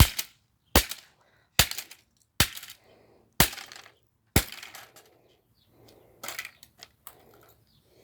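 Parts of a Whirlpool Duet washing machine being smashed: six hard blows about a second apart, with cracking and breaking, then lighter knocks and clattering of pieces.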